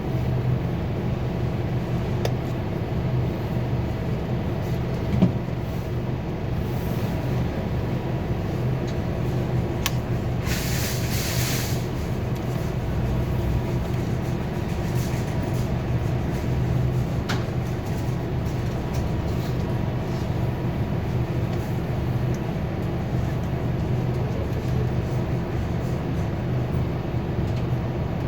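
Steady drone of a 2021 Scania K280UB4 city bus's engine and running gear, heard from inside the cabin while the bus is underway. A sharp knock comes about five seconds in, and a short hiss lasting a little over a second comes about ten seconds in.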